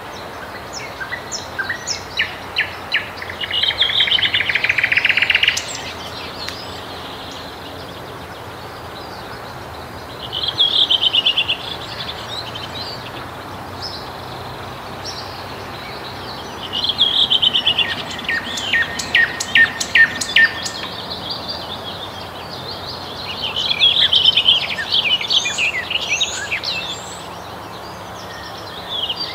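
Nightingale singing in separate phrases a few seconds apart: rapid clicking notes and fast trills, and a run of loud sharp notes, over a steady background hiss.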